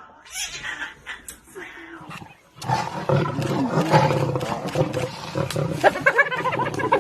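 An animal's loud calls starting about two and a half seconds in, mixed with people's voices.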